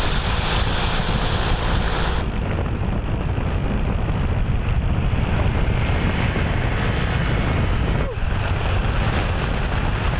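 Steady traffic rumble of trucks on a highway mixed with wind rush on the microphone. The high hiss drops away sharply about two seconds in, and there is a brief dip near the end.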